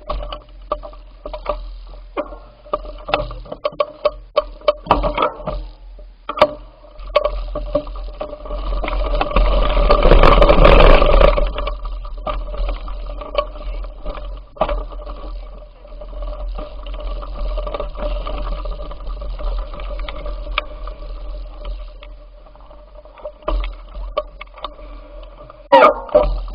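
Bicycle ride noise: irregular rattling clicks and knocks over a steady hum, with a rushing swell that builds to its loudest about ten seconds in and dies away.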